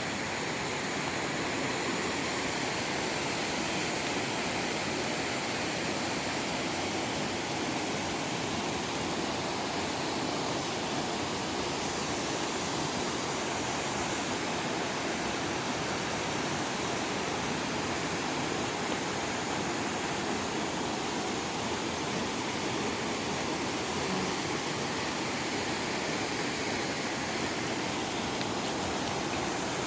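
Steady rush of falling or flowing water, an even hiss with little low rumble and no change in level.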